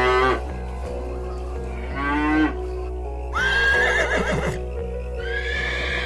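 Cattle mooing, with a short call about two seconds in and a longer, higher call around the middle, over steady background music. Another call begins near the end.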